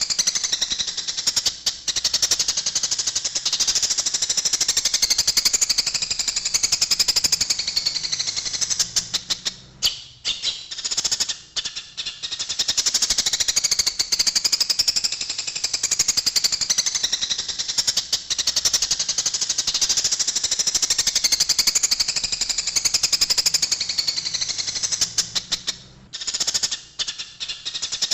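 Eurasian tree sparrows chirping in a fight: a loud, dense, fast rattle of high chirps that thins out briefly about ten seconds in and again near the end.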